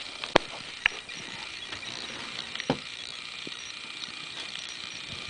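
A few sharp, scattered clicks and knocks over a steady hiss.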